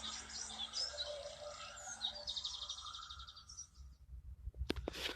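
Birds chirping, with a fast trill around the middle, fading out a little before four seconds in; a few sharp clicks follow near the end.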